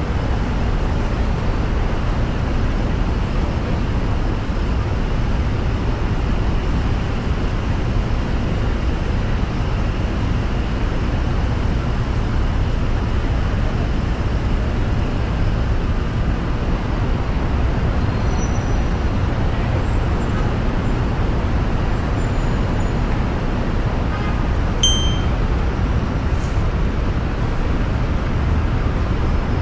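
Steady low rumble of a Honda Crosstour driving, road and engine noise, with a short faint high beep about 25 seconds in.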